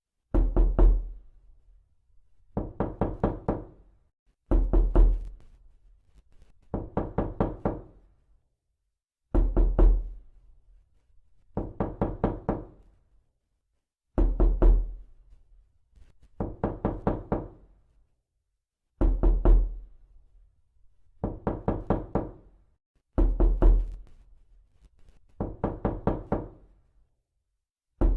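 Repeated knocking, as on a door: quick groups of four to six knocks, a group about every two and a half seconds, each group opening with a heavier thud, with dead silence between groups.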